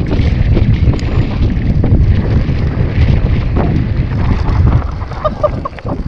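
Wind rushing over the microphone with rumble and rattle from a downhill mountain bike on rough trail. It eases off about five seconds in.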